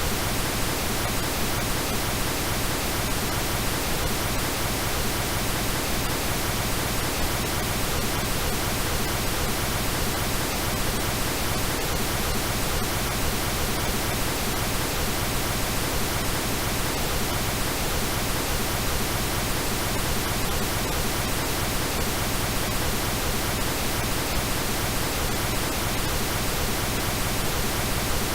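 Steady computer-generated pink noise, an even hiss spread across all pitches and unchanging throughout, with a few faint steady tones mixed in.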